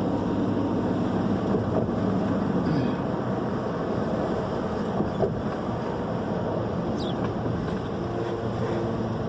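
A vehicle driving, with engine and road noise heard from inside the cab. The engine hum changes pitch a few times, and a couple of small clicks sound about five and seven seconds in.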